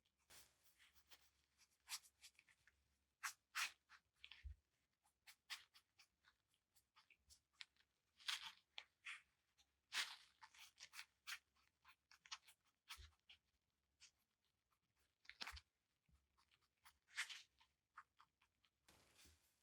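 Faint, irregular light scraping and rubbing strokes with a few small knocks and clicks: hand work on a small part of a cheese grinder under restoration.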